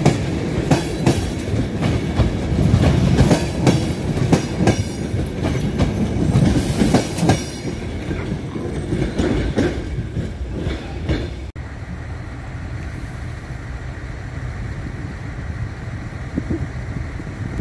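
Passenger railway coaches rolling past, their wheels clicking over the rail joints over a rumble that fades as the last coach goes by, with a brief high hiss about seven seconds in. After a sudden break about two-thirds through, only a steady low background noise remains.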